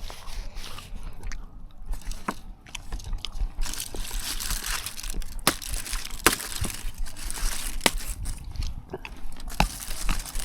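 A person chewing and crunching food close to the microphone: wet, crackly mouth sounds with sharp clicks.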